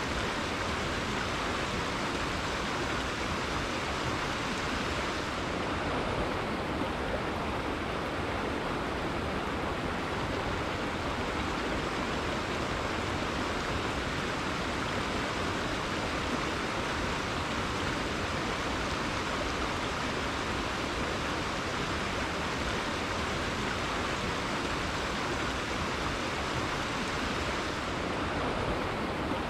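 Rainforest river flowing: a steady, even rush of running water.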